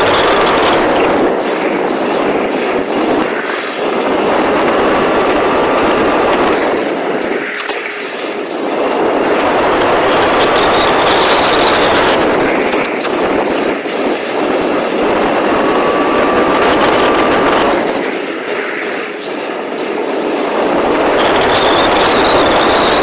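Rlaarlo XBS remote-control car driving hard, its electric motor whining under a loud rush of tyre and drivetrain noise. The run surges and eases off every few seconds, with the whine climbing on each surge.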